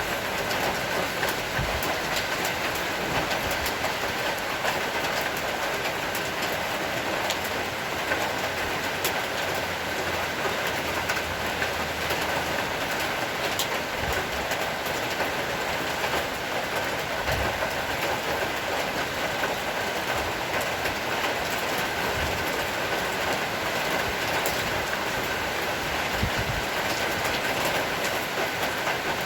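Heavy rain pouring steadily, a dense even hiss with many scattered sharp ticks of drops striking hard surfaces.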